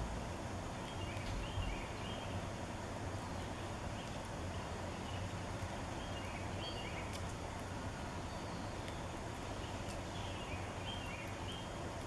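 A songbird repeats a short phrase of a few brief, high, stepped notes three times, a few seconds apart, over a steady outdoor hiss.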